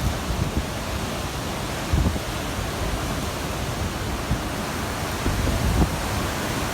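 Steady rushing noise of wind and surf. Gusts of wind buffet the microphone with low rumbles about two seconds in and again around five to six seconds in.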